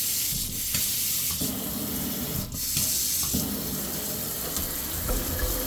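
Water running from a newly fitted kitchen mixer tap into the sink: a steady splashing hiss that dips briefly twice.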